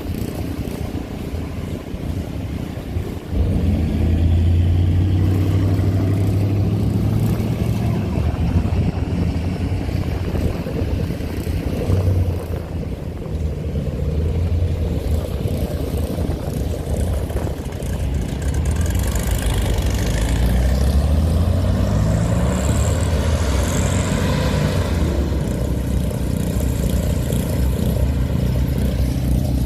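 Hot rod and show car engines running as the cars drive out of a car show. A loud, deep engine note comes in suddenly about three seconds in, and later an engine revs up with a rising pitch.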